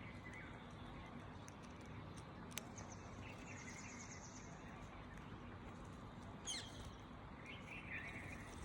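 Faint bird chirps and calls over a steady low background noise, with a quick falling call about six and a half seconds in and a single sharp click earlier on.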